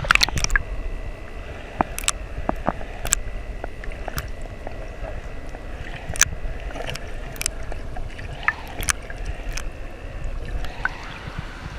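River water running steadily, with scattered sharp clicks and knocks throughout.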